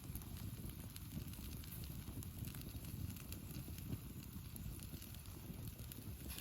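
Wood campfire crackling with scattered sharp pops, over a steady low rumble of wind on the microphone.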